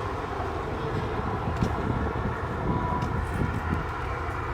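Cars driving away up a highway on-ramp, a low engine and road rumble, with wind buffeting the microphone.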